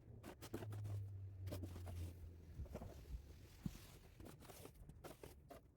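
Snow shovel pushing and scraping snow, faint, in short scrapes and crunches. A low hum runs under the first two seconds or so.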